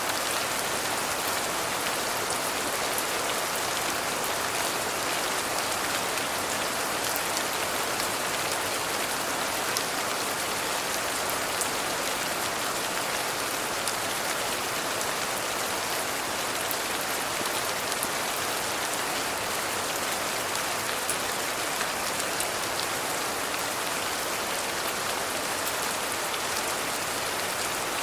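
Steady rain falling, an even hiss with many small droplet ticks scattered through it.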